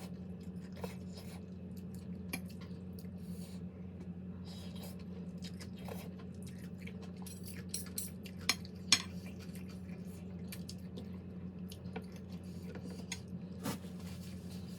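Eating utensils clinking against a plate or bowl in small, scattered clicks, with two sharper clinks a little past the middle, over a steady low hum.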